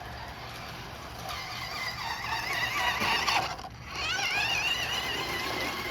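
Small electric motor of a radio-controlled toy car whining as it drives, its pitch wavering up and down with the throttle. It cuts out briefly about three and a half seconds in, then whines again.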